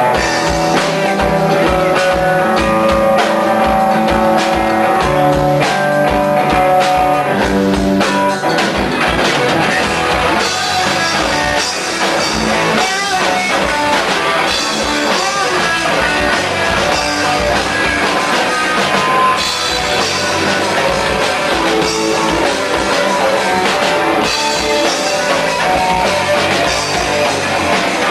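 Instrumental intro of a rock song: guitars playing over a drum kit with a steady beat, no vocals.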